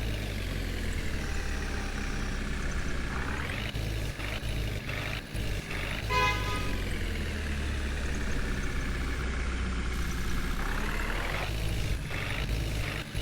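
Heavy diesel engine of a tractor or JCB running steadily, its pitch rising twice as it is revved up. About six seconds in a vehicle horn sounds briefly.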